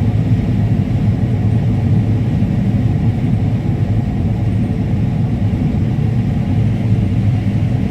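Combine harvester running steadily while harvesting corn: a constant low drone of engine and machinery.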